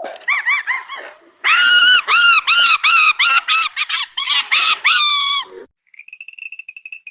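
A bird calling loudly in quick, repeated honk-like notes, each rising and falling in pitch, about two to three a second, starting about a second and a half in after a few softer calls and stopping abruptly near the end. Just after it a steady high-pitched trill begins.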